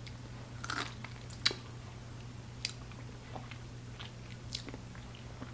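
Faint mouth sounds of a person biting into and chewing a slice of cut Gondhoraj lime: a few small wet clicks and smacks scattered over several seconds, the sharpest about one and a half seconds in.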